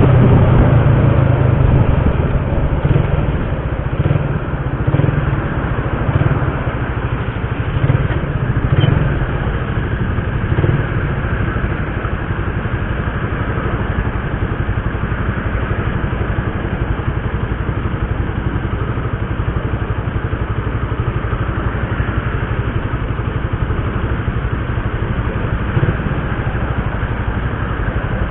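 Motorcycle engine running steadily, louder for the first couple of seconds and then settling to an even level, with a few brief bumps in loudness along the way.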